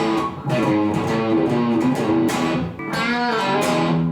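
Epiphone Les Paul electric guitar, freshly re-fretted with stainless steel frets, played through an amplifier: picked notes and chords, with a wavering bent note about three seconds in.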